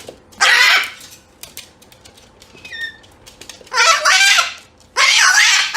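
Chicken calling loudly three times: a short call just under a second in, a longer call about three and a half seconds in, and a long call starting near the end.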